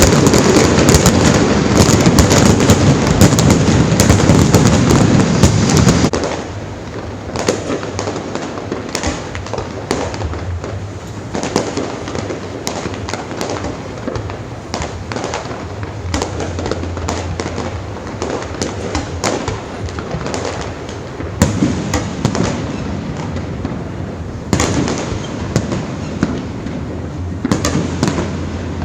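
Fireworks going off: a dense, loud barrage of bangs for about six seconds, then sparser pops and crackles, with heavier volleys again in the last few seconds.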